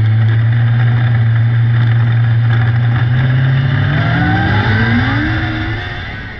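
600cc micro sprint car engines running hard at high revs. About halfway through, one engine note climbs in pitch as it accelerates, and the sound fades away near the end.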